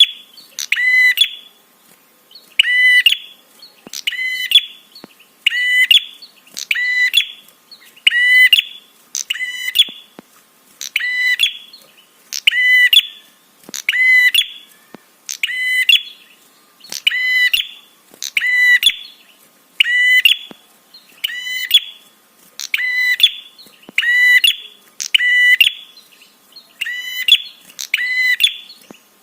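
Prinia (prenjak) calling over and over, a loud, sharp call repeated at an even pace of about one a second.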